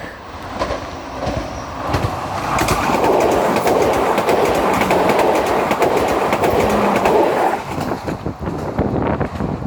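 Train passing close by, its wheels clattering over the rail joints; the sound builds over the first couple of seconds, holds loud for about five seconds, then drops away to a few separate clicks near the end.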